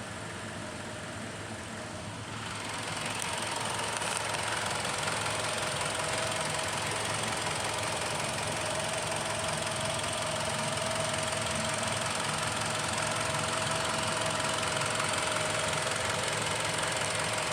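Mitsubishi Outlander engine running steadily, growing louder about two seconds in and then holding an even note.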